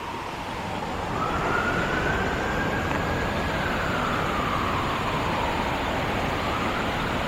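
A distant siren wailing slowly up and down, faint over a steady rushing noise.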